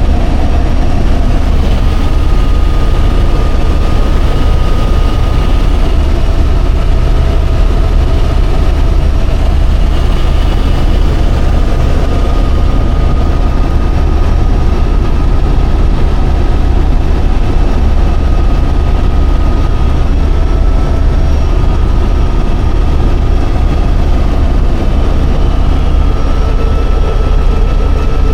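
Helicopter in flight, heard from inside the cabin: a loud, steady, low rumble with a faint steady whine on top.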